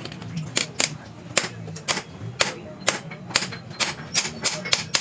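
Repeated sharp hammer taps on metal, about three a second at an uneven pace, over a low background hum.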